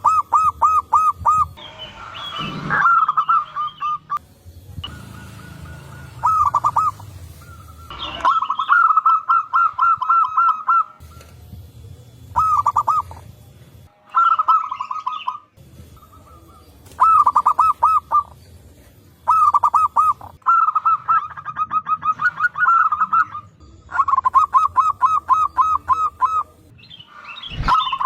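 Zebra doves (perkutut) cooing: repeated bouts of quick, evenly spaced bubbling notes, one bout following another with short pauses between.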